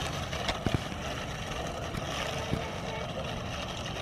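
Steady low rumbling noise of wind buffeting the camera microphone outdoors, with a few faint clicks about half a second in and again near the middle.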